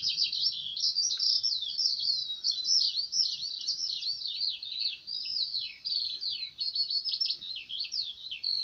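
Birds chirping: a dense, unbroken run of quick high chirps and downward-sweeping calls, several overlapping.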